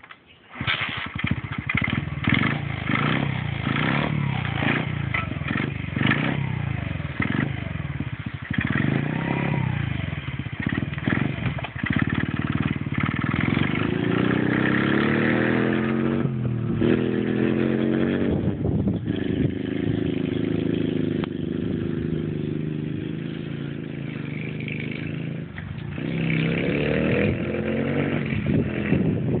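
50cc dirt bike engine running, its pitch rising and falling as it is revved up several times.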